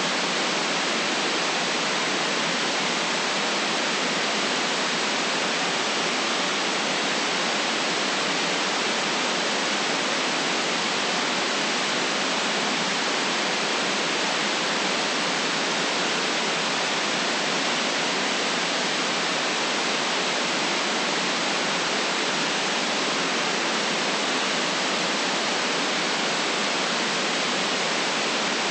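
Steady white noise: an even, unchanging hiss with no rumble in the deep bass, holding the same level throughout.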